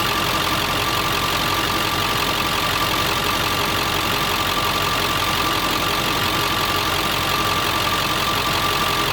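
7.3 L Powerstroke turbodiesel V8 idling steadily after an oil change, with a steady high whine over the engine sound.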